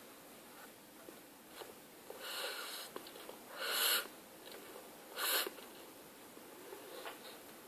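A person eating into a close microphone: faint mouth clicks, with three short breathy rushes of air, the middle one the loudest.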